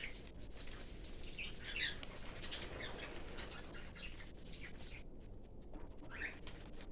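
Cockatiel giving a few short chirps, a cluster around two to three seconds in and one more near the end, with small clicks in between.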